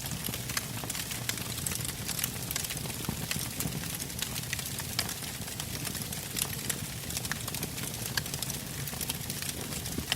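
Wood fire crackling: burning logs give off many irregular sharp pops and snaps over a steady low rush of the flames.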